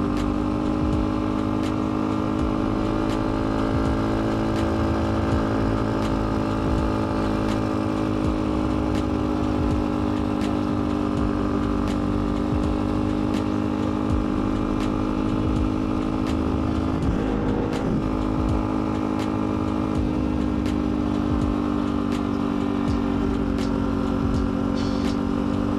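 Pit bike's small single-cylinder engine running at a steady cruising speed, holding an almost constant pitch, with light ticks and rattles throughout.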